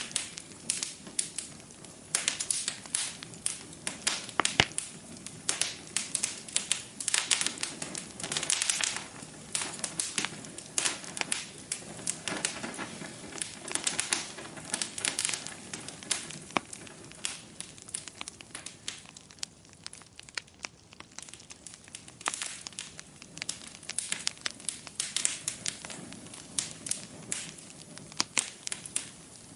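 Wood fire burning in a fireplace, crackling with irregular sharp pops over a soft hiss; the crackling thins out for a few seconds past the middle, then picks up again.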